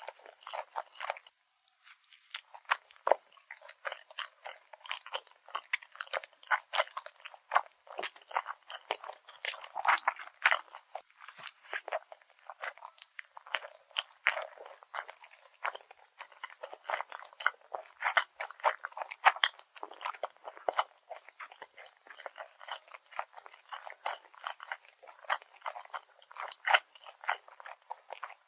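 Close-miked chewing of grilled garaetteok (Korean rice cake bar) with jocheong grain syrup: a rapid run of crunchy, crackling clicks as the toasted rice cake is chewed, with a brief pause a second or two in.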